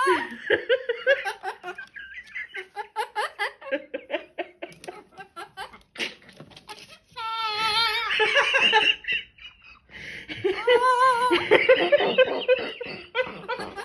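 Giggling laughter in quick rhythmic bursts, then two long wavering laughing cries in the second half.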